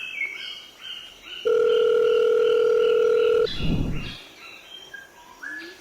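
A steady electronic beep, one unwavering tone held for about two seconds from about a second and a half in, followed by a short low rumbling thud. Birds chirp faintly in the background.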